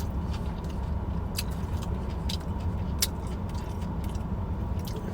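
Steady low rumble of a car idling, heard from inside the cabin, with scattered small clicks and crunches of someone eating.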